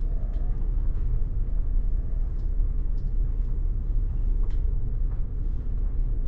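Steady low rumble of a moving bus heard from inside the cabin, with a few faint ticks and rattles.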